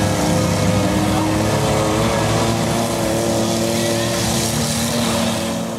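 Engines of several demolition-derby minivans running and revving together, a steady overlapping drone with slight rises and falls in pitch.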